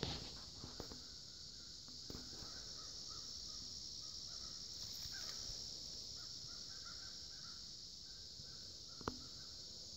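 Faint outdoor ambience: birds calling in a series of short, repeated calls over a steady high hiss, with a few sharp clicks near the start and about nine seconds in.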